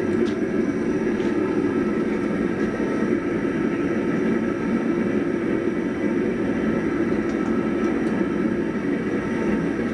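Blacksmith's forge running steadily, a constant rushing noise while the axe head heats slowly in it.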